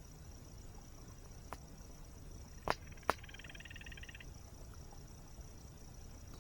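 Night nature ambience: insects keep up a steady high buzz over a low steady rush. A campfire gives a faint pop and then two sharp cracks, around the middle. Just after them a frog gives a short rapid trill lasting about a second.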